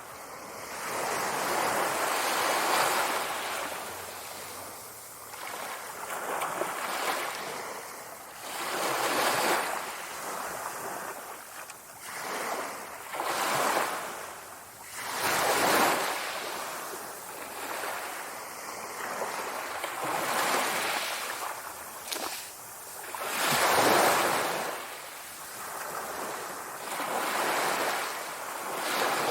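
Sea waves breaking and washing onto the shore, a rushing hiss that swells and falls back in surges every two to three seconds.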